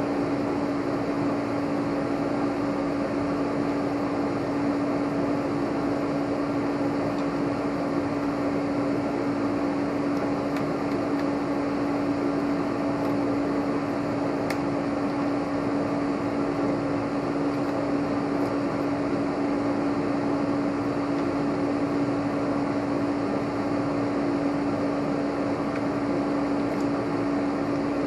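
Steady whir of a fan-type machine running, with a constant hum.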